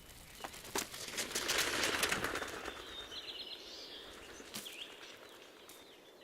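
Western capercaillie males fighting: a flurry of wing flapping that is loudest from about one to three seconds in, with a few sharp clicks before it.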